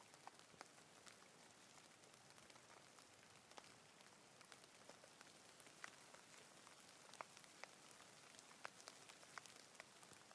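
Faint, steady rain: a soft even hiss with many separate drops ticking at irregular moments.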